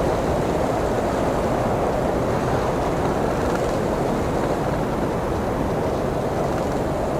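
Strong blizzard wind blowing steadily, an even rushing noise with no gusts or pauses.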